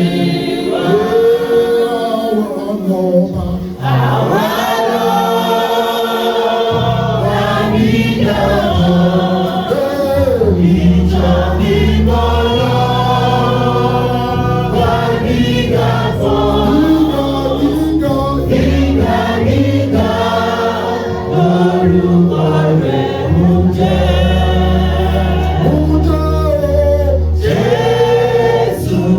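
A church choir and congregation singing a gospel hymn, with low bass notes joining the singing about seven seconds in.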